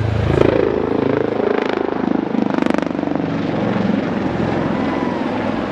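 Royal Navy Lynx display helicopter flying past, its rotor and turbine noise dropping in pitch as it goes by.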